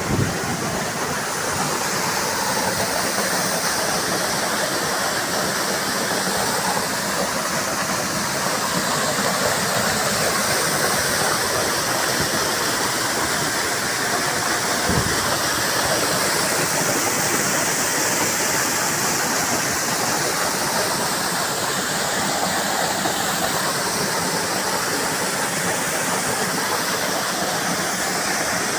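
A large waterfall rushing steadily, water pouring down onto rock. A brief low thump comes about halfway through.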